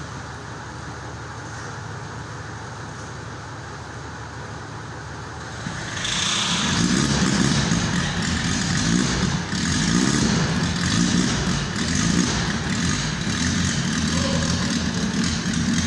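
Opel Kadett engine idling steadily, then revved up and down repeatedly from about six seconds in, running louder and rougher, while it smokes heavily from the exhaust.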